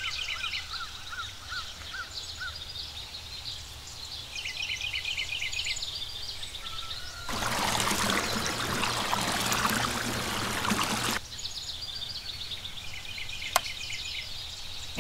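Water poured from a small metal bucket into a miniature cement mixer's drum of sand and cement: a splashing pour lasting about four seconds in the middle. Birds chirp throughout, and a single sharp click comes near the end.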